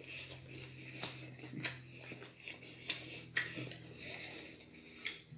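Quiet wet mouth clicks and smacks from chewing a bite of deep dish pizza close to the microphone, coming irregularly a few times a second over a faint steady low hum.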